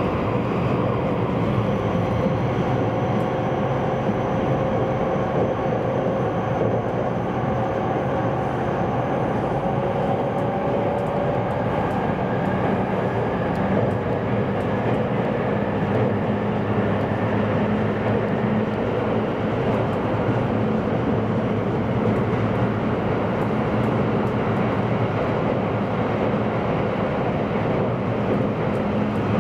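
Steady running rumble inside the passenger cabin of a JR East E257-500 series express train moving along the line. A faint whine rises slightly in pitch over the first dozen seconds.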